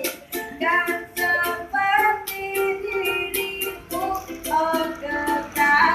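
A child singing over a strummed guitar, the strums coming in regular strokes under the sung melody.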